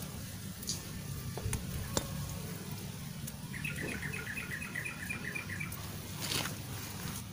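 A bird calling a rapid run of about ten short, evenly spaced chirps lasting about two seconds, midway through, over a steady low rumble and a few light clicks.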